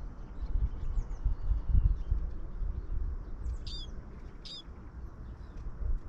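Small birds at a feeder chirping, with two short, clear calls a little over halfway through and fainter chirps earlier. Under them runs a louder low, gusty rumble.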